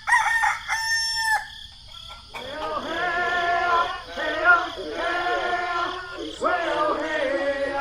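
Rooster crowing several times in a row, each crow a long bending call, after a couple of short high-pitched calls at the start.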